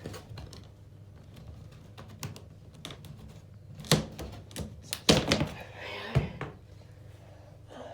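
Plastic knocks and clunks as the grille cover of a Mistral exhaust fan is pulled down and handled. The sharpest knocks come about four seconds in, just after five seconds, and near six seconds.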